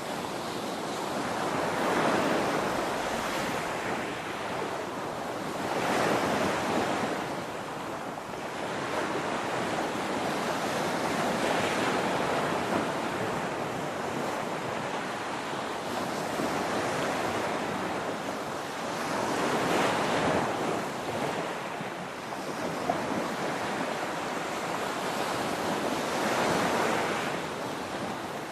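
Ocean waves breaking on a shore, a continuous surf wash that swells and ebbs every several seconds.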